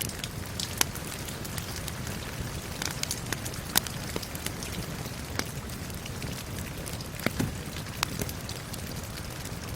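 Steady rain falling, mixed with a wood fire crackling, its sharp pops scattered irregularly over the rain.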